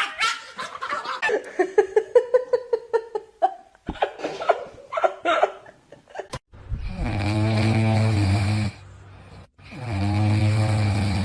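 A dog snoring loudly: two long, deep snores of about two seconds each in the second half. These come after a run of quick, pulsing vocal sounds in the first few seconds.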